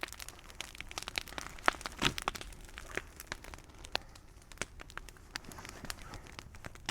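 Bonfire burning, crackling with many irregular sharp pops and snaps over a low hiss.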